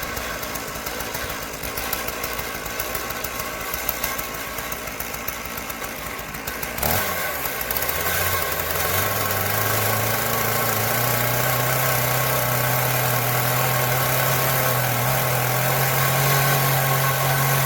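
Stihl MS 461 chainsaw running at full throttle in an Alaskan chainsaw mill, ripping lengthwise through a maple log. About seven seconds in the sound changes abruptly: a steadier, lower engine note sets in, climbs slightly in steps and then holds.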